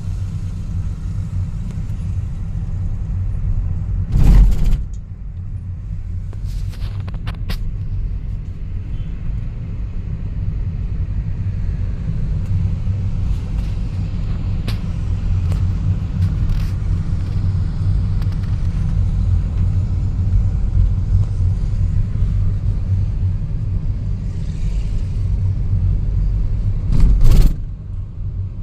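Steady low rumble of a car on the move, heard from inside the cabin. Two loud thumps come through, about four seconds in and again near the end.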